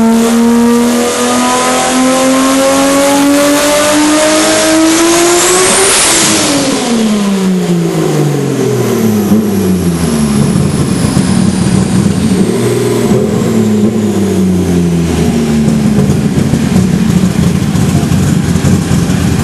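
Toyota Supra's inline-six with a BorgWarner S595 turbocharger making a full-throttle pull on a chassis dyno. The engine note rises steadily for about six seconds while the turbo's high whine climbs with it. Then the revs drop away and the engine runs on at lower, uneven revs as the turbo whine slowly winds down.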